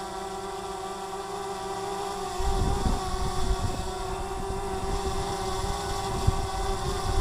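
DJI Mavic Mini quadcopter hovering, its propellers giving a steady whine. About two and a half seconds in, gusts of wind start buffeting the microphone with a low rumble.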